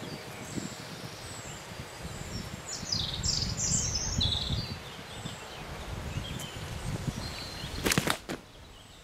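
Outdoor bankside ambience: a small songbird gives a few quick chirping phrases over a low rumble of wind on the microphone. Two sharp knocks come close together near the end.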